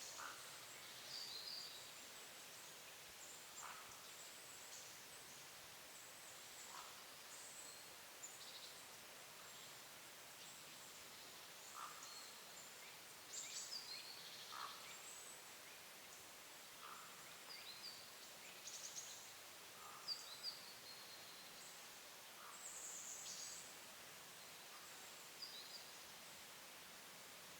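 Quiet woodland ambience with scattered short, high-pitched calls from small songbirds, a few at a time, coming every second or two.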